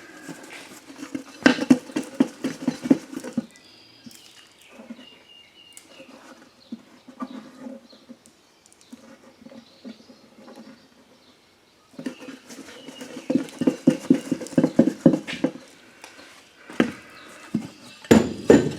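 Rapid back-and-forth scrubbing on the rusted inside of a steel lawn mower wheel rim, in two spells: one about a second in and a longer one from about twelve seconds in, with quieter handling noises between. The rust comes from green tire slime eating into the rim.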